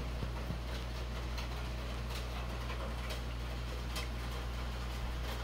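Heavy downpour: a steady, loud rush of rain with a deep low rumble, and sharp ticks of drops hitting close by, a few every second.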